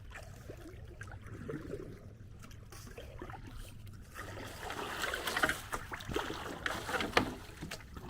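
Kayak paddle dipping and splashing in floodwater, quiet at first, with louder irregular paddle strokes and splashes from about four seconds in.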